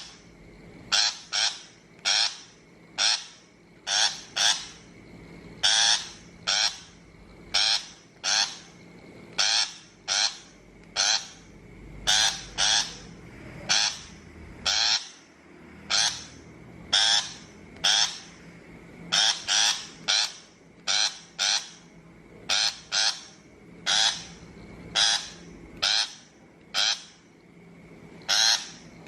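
Shrike giving harsh, raspy calls in quick runs of two or three, about two calls a second with short pauses between the runs.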